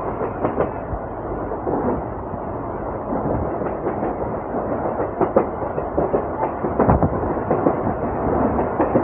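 Passenger train running along the track, a steady running noise with irregular clanks and knocks from the wheels and carriage.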